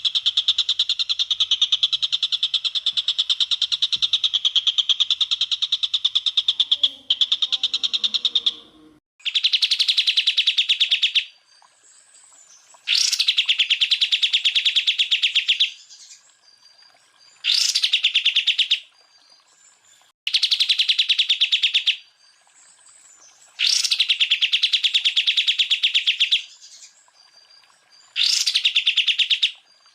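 Green leafbird (cucak ijo) singing rapid-fire, machine-gun-like trills ('tembakan'). One long unbroken trill lasts about eight seconds, then six shorter bursts of one to three seconds follow, each separated by a brief pause.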